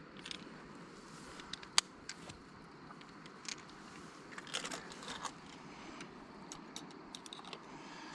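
Scattered small clicks and rattles of gear being handled, with one sharper click about two seconds in.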